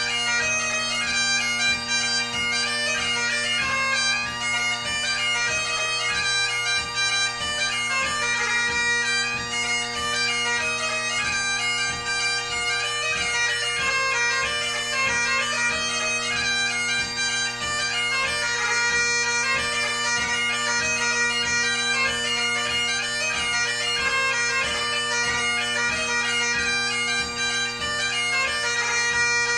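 Great Highland bagpipe played solo: steady drones under a quick chanter melody crowded with gracenotes, a light-music (ceòl beag) tune played without a break.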